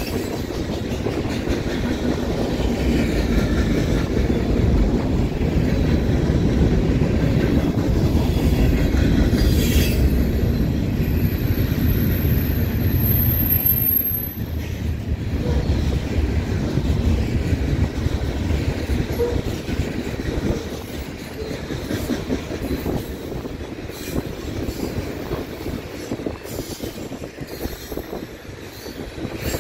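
Freight train of tank cars and covered hopper cars rolling past close by: a steady rumble of steel wheels on rail. A thin high squeal rises for a few seconds near the middle, and the rumble eases slightly in the second half.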